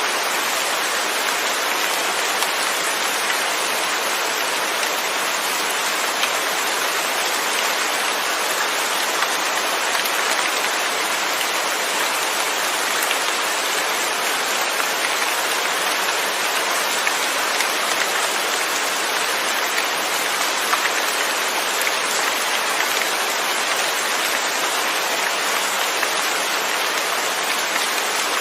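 Rain falling steadily: an even, unbroken hiss of drops with no thunder.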